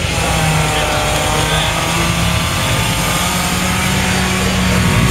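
Car engine held at high revs during a burnout, its note staying steady over a dense rushing noise.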